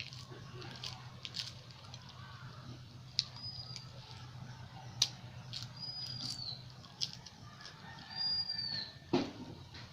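Close-up eating sounds of chicken curry with porota eaten by hand: wet chewing and smacking, with scattered sharp clicks and a duller thump about nine seconds in. A short high chirp repeats three times in the background, about every two and a half seconds, over a steady low hum.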